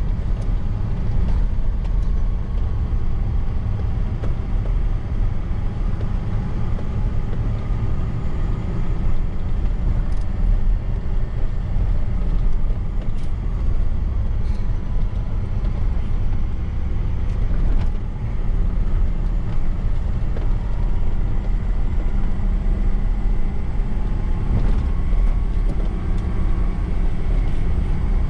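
Truck engine and road noise while driving: a steady, low drone that holds at one level throughout, with a faint whine drifting slightly in pitch above it.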